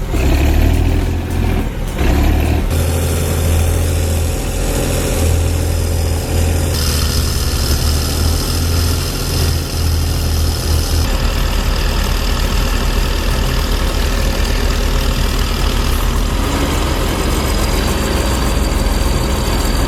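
Diesel engines of crawler bulldozers, a Chetra T11 and a Cat D6R, running under load as one pulls the other, which is stuck in deep mud. A steady low drone that changes abruptly in tone about three, seven and eleven seconds in.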